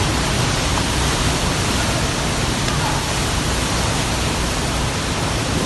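Heavy rain pouring down in a storm: a steady, loud, even hiss.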